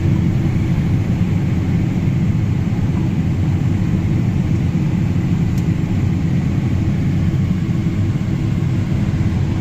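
John Deere S680 combine running steadily while harvesting corn: a loud, even low drone.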